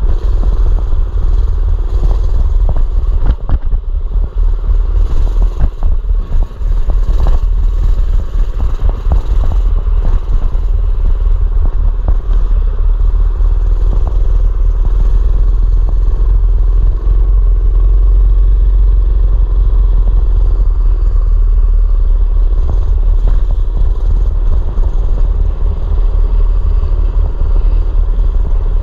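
A mini bike's small engine running while being ridden, under a heavy, steady low rumble. Knocks and rattles come in the first several seconds.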